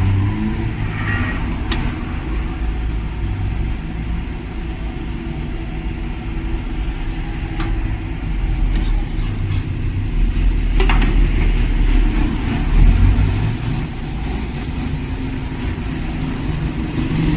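Steady low motor rumble, like an idling engine or street traffic, with a few light clicks and knocks over it.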